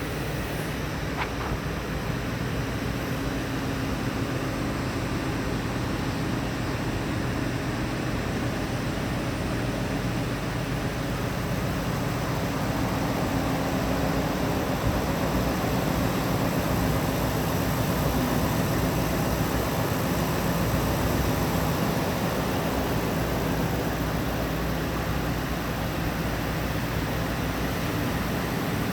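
2008 Ford F-250 Super Duty's 5.4-litre V8 engine running steadily at idle.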